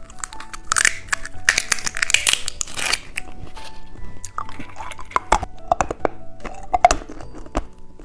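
Plastic candy packaging crinkling and tearing in handling, over soft background music with held notes.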